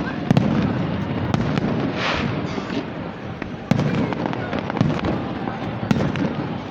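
Aerial fireworks display: repeated sharp bangs and booms over a continuous low rumble, with a brief hissing crackle about two seconds in.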